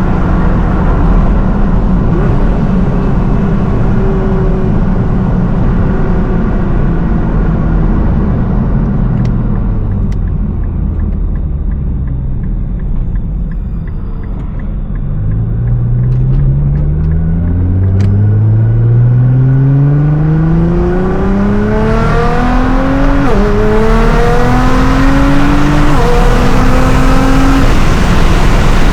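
Nissan R35 GT-R's twin-turbo V6, tuned to 750 hp, first easing off with the engine note slowly falling, then pulling hard from about halfway: the pitch climbs steeply and drops sharply at each upshift, several times in the last third.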